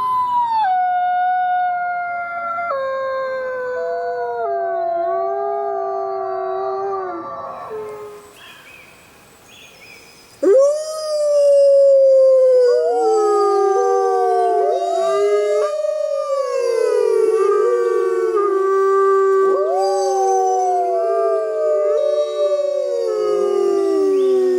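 Several wolves howling together in a chorus, their long howls overlapping and sliding in pitch. The first chorus fades out about eight seconds in, and a second, louder chorus starts abruptly a couple of seconds later.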